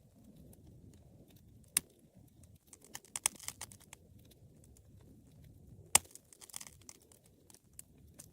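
Wood fire burning in a fireplace: sharp crackles and pops over a low rumble of flame. There are two loud single pops, about two seconds in and near six seconds, and a flurry of quick crackling in between.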